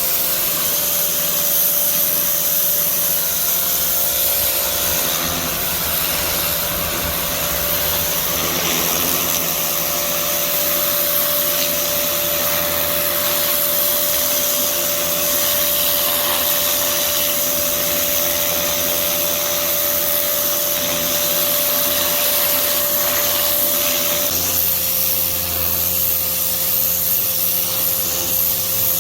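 Pressure washer running steadily, its motor humming under the loud hiss of the water jet spraying. The motor's hum shifts a little near the end.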